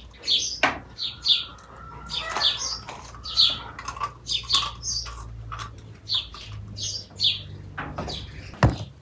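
Small birds chirping in quick, irregular short calls, with a couple of sharp clicks from handling vegetables and dishes.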